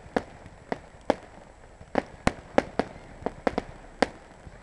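Fireworks bursting overhead: about a dozen sharp bangs in irregular, quick succession, some coming in close pairs and triplets.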